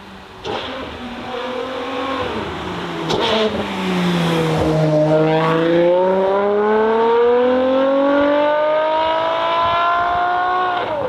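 A performance car's engine accelerating hard past. It starts with a sudden burst of throttle, the revs sag with a sharp crack about three seconds in, then the engine note climbs steadily for about six seconds as the car pulls away.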